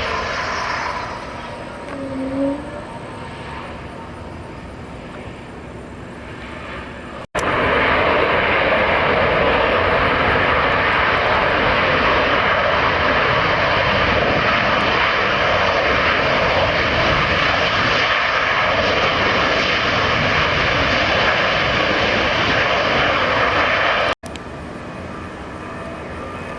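Jet airliner engines. Quieter engine noise with a falling pitch at first, then, after an abrupt cut about seven seconds in, loud steady jet engine noise for about seventeen seconds, which breaks off abruptly back to quieter engine noise.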